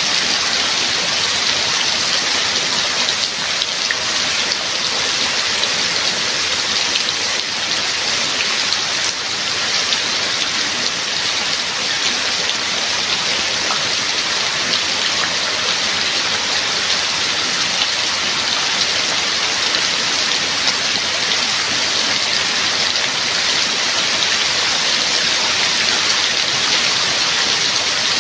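Steady heavy rainfall, an even hiss of many drops falling on surfaces.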